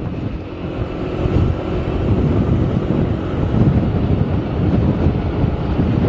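Steady rush of wind on the microphone mixed with engine and road noise while riding on a moving motor scooter.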